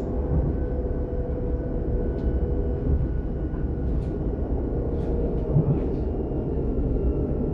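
A DB Class 422 electric multiple unit running between stations, heard from inside the passenger compartment: a steady deep rumble with a faint electric whine from the traction drive and a few light clicks from the wheels on the track.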